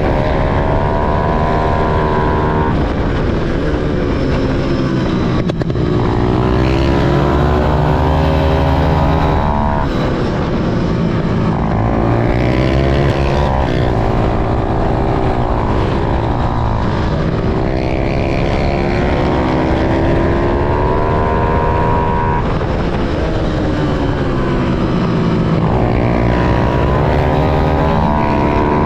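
Small single-cylinder motorcycle engine revving hard through the gears around a kart track. The pitch climbs, drops back at each shift or braking point, and climbs again, over and over.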